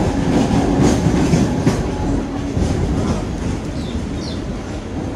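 Mumbai suburban local electric train running on the track: a steady rumble with a few sharp clicks from the wheels on the rails.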